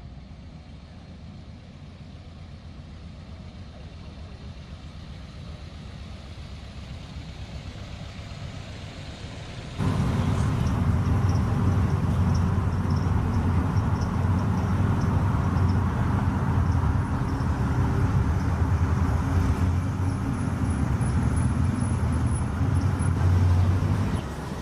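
Car engine with a deep exhaust note, its low rumble slowly growing louder. About ten seconds in it turns abruptly into a loud, steady, low engine rumble close by, which eases off just before the end.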